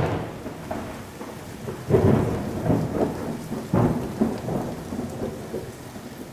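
Thunderstorm: steady rain with rolls of thunder, the heaviest rumbles about two and about four seconds in.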